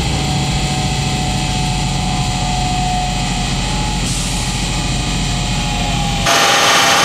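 Turbocharged Nissan 370Z NISMO's 3.7-litre V6 running with a steady, even low note. About six seconds in, the sound switches abruptly to a louder, brighter noise.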